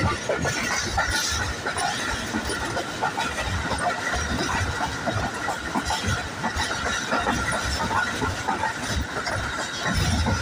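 Moving express passenger train heard from a coach window: steady wheel-on-rail running noise with irregular clacks and knocks from the track, and a steady high whine under it.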